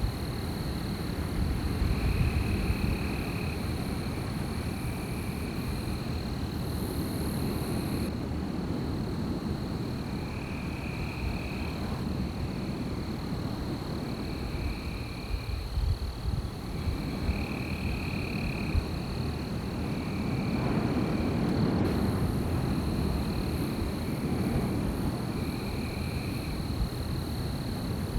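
Night outdoor ambience: wind blowing in gusts, with a steady high-pitched tone throughout and short, high frog calls repeating every second or two.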